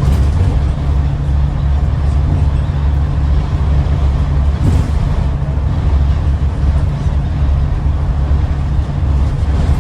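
Scania N94UD double-decker bus's diesel engine running steadily under way, heard from inside as a constant low drone with road noise.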